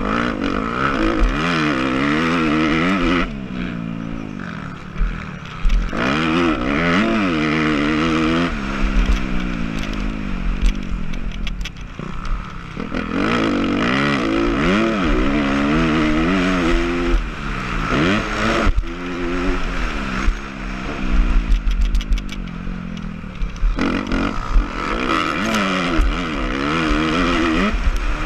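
Suzuki RM-Z250 motocross bike's single-cylinder four-stroke engine revving hard and falling back over and over as the throttle opens and closes around the track, with a few stretches off the throttle.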